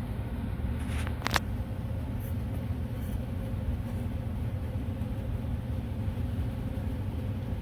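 Partly disassembled Hunter ceiling fan turning with a steady low rumble and a faint steady tone, with a sharp click a little over a second in. The noise is a motor fin striking the white jacket of a wire that a broken tie wrap no longer holds clear.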